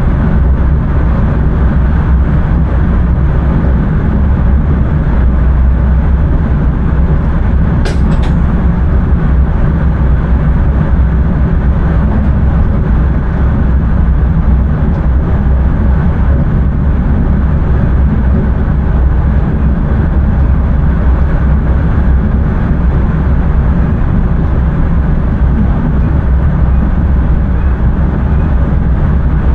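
Intercity train running along the line, heard from inside the driver's cab: a steady, loud low rumble of wheels and running gear. One brief sharp click about eight seconds in.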